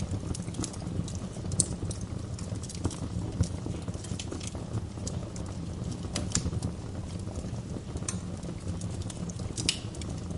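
Wood fire crackling, with irregular snaps and a few louder pops, over a steady low rumble.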